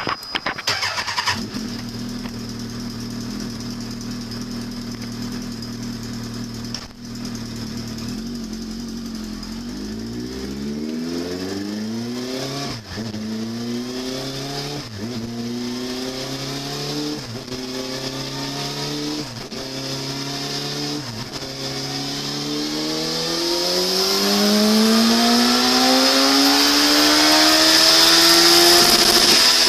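A vehicle engine catches with a loud burst and runs steadily. About ten seconds in it revs up in repeated climbs, each cut off by a sharp drop about every two seconds, as when accelerating through gears. Near the end it makes one long climb that falls away. A steady high whine sits over it throughout.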